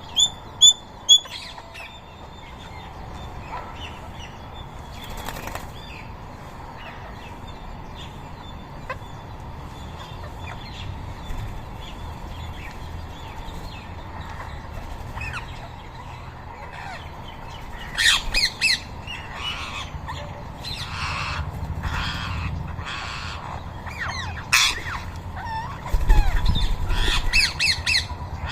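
Rose-ringed parakeets: a quick run of about four high-pitched calls at the start, then wingbeats and more calls crowding in over the last ten seconds.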